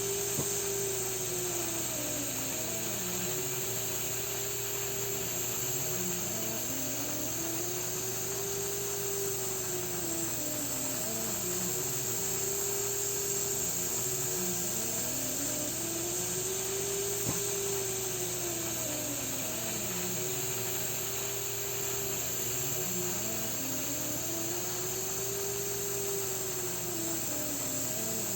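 A machine running steadily, with a whine that slowly rises and falls in pitch, repeating about every three and a half seconds, over a constant hum.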